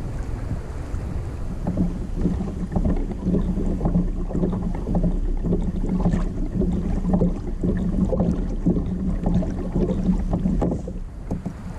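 Water splashing and slapping against a fishing kayak, with wind on the microphone. A steady low hum comes in about a second and a half in and stops near the end.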